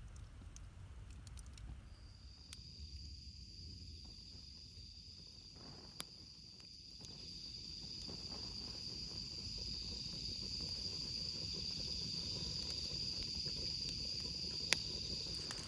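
An insect, likely a cricket, trills a steady high-pitched note from about two seconds in to near the end. Occasional faint crackles from a wood campfire sound under it.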